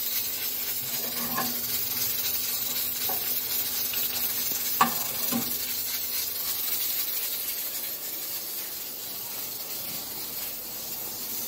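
Steady hiss of food cooking on a stove, with a few light knocks of a utensil.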